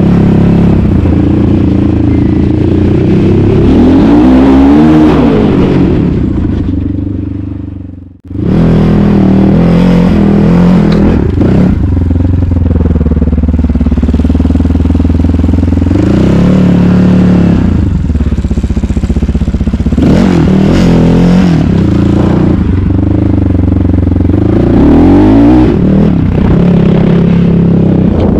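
Asix XT97 300cc enduro motorcycle engine running under load, revving up and dropping back several times as it is ridden. The sound fades out about eight seconds in and comes back abruptly.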